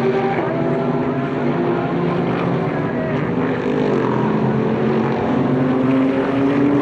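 Several Super GT race car engines running at speed at once, their tones overlapping, with one engine's pitch rising steadily over the last couple of seconds as it accelerates.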